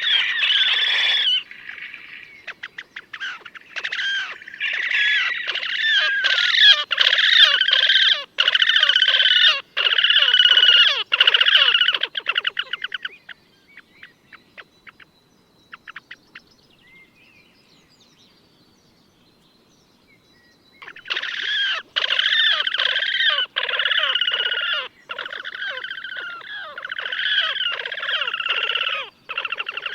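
Slavonian grebe (horned grebe) calling: long bouts of rapid trilling, given twice with a pause of several seconds between them.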